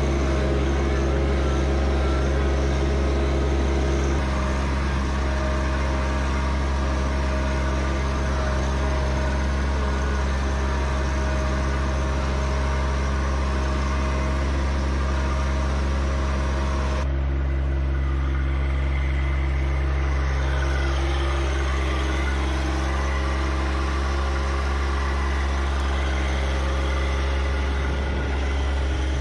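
John Deere 1025R compact tractor's three-cylinder diesel engine running steadily, its tone changing abruptly twice.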